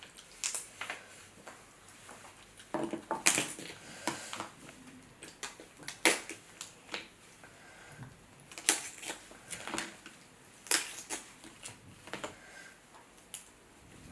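Crab shell being cracked and eaten: sharp, irregular cracks and crunches, with a quick cluster about three seconds in and more scattered after it.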